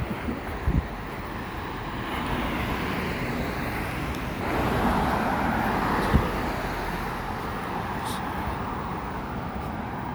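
Road traffic going by on a city street, with a steady wash of tyre and engine noise that swells as a vehicle passes about halfway through.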